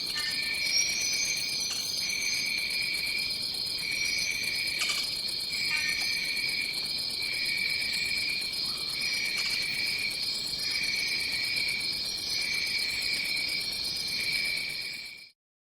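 Tropical forest insect chorus: a continuous high shrill drone with a lower shrill band pulsing on and off about once a second, and a few short high chirps over it. The sound cuts out abruptly near the end.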